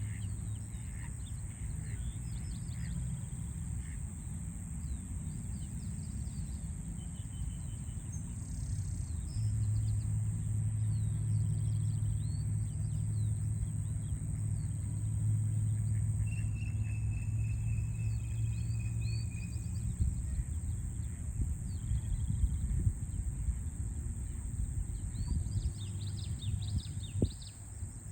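Small birds chirping and calling in short notes throughout, with one longer, slightly falling trill a little past the middle, over a steady low city hum that swells for the middle third. A steady high hiss also runs underneath.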